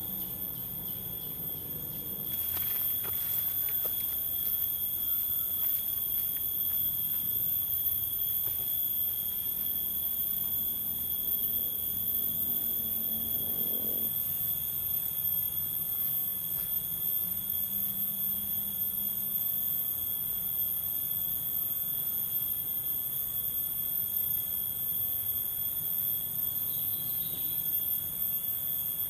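Insects chirring in a steady, high-pitched chorus that does not change, over a low, even background noise.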